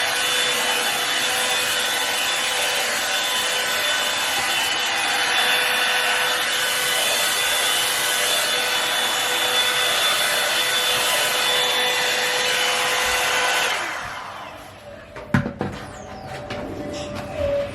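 Revlon One-Step hot-air dryer brush running steadily: a fan blowing with a steady motor whine. About 14 seconds in it is switched off and winds down, followed by a couple of sharp knocks.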